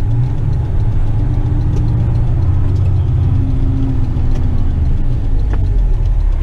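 Western Star tipper truck's diesel engine running, heard from inside the cab: a steady low drone.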